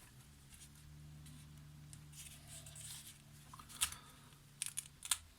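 Faint steady low electrical hum that stops just before the end, with a few light clicks and taps of small tools on the circuit board near the end.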